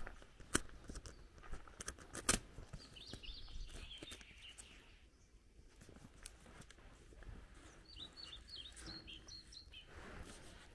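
Small songbirds chirping in short quick phrases, about three seconds in and again about eight seconds in. A few sharp clicks in the first couple of seconds are louder than the birds.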